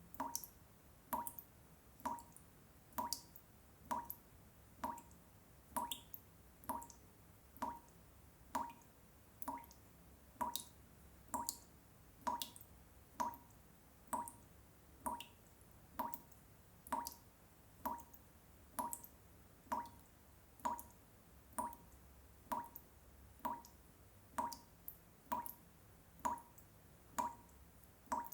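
Water drops falling one after another in a steady, even rhythm, about one and a half drops a second. Each drop is a short, pitched plop.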